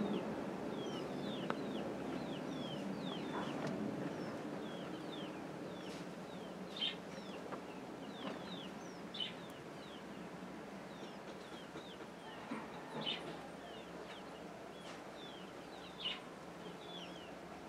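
Birds chirping in the background: many short, high, falling chirps repeated throughout, with a few louder calls. A low rustle of handling in the first few seconds.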